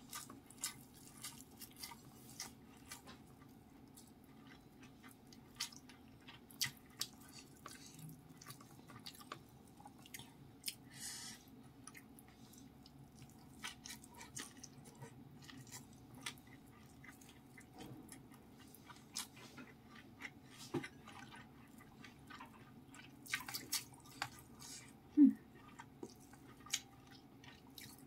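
Close-miked mouth sounds of eating rice with fried anchovy sambal, petai beans and omelette by hand: irregular wet chewing clicks and lip smacks. One louder, short pitched throat sound comes near the end.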